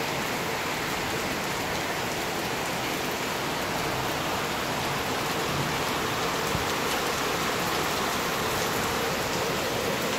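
Heavy rain pouring down steadily onto a paved yard, a downpour.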